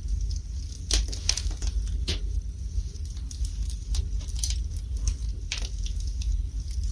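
Wood fire burning in a fireplace: irregular sharp crackles and pops over a steady low rumble. There is a cluster of pops about a second in and another loud pop a little past the middle.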